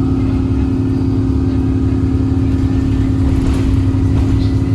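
A 2008 Orion VII Next Generation hybrid bus running, heard from inside: its Cummins ISB diesel and BAE HybriDrive drivetrain give a low rumble under a steady, even hum.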